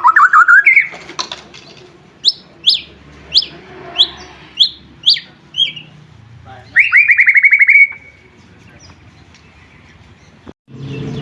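White-rumped shama (murai batu) singing: a fast trill rising in pitch, then a run of about eight sharp, high, downward-sliding whistled notes, then another fast trill. Near the end the song stops and a low hum comes in.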